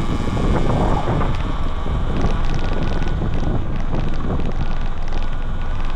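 Wind buffeting the camera microphone with a heavy low rumble, a faint steady high tone beneath it and scattered small ticks.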